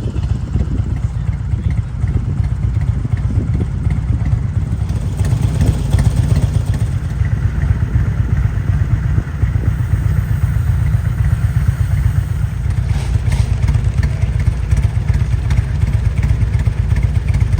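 Motorcycle engines running, a steady low rumble that does not let up.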